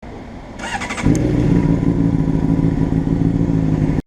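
Honda CBR600RR's inline-four engine running at a steady speed, coming in abruptly about a second in. Before it, a low hiss with a brief rattle of clicks.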